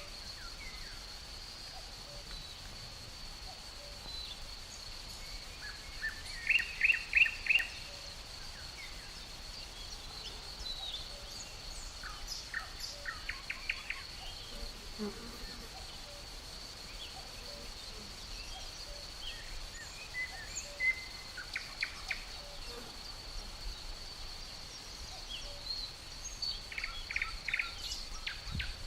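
Wild birds calling in short runs of quick chirps, the loudest a run of four or five notes about seven seconds in, over a steady high-pitched insect trill.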